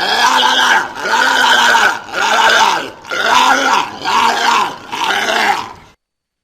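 Walrus calling, a rhythmic series of about six calls roughly one a second, each rising and then falling in pitch, stopping abruptly near the end.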